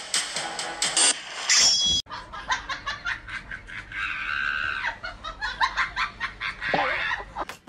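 Music for about two seconds, then a sudden cut to laughter in quick repeated bursts.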